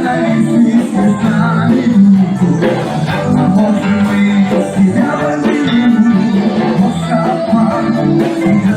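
Rock band playing an instrumental passage, with guitar over a steady beat.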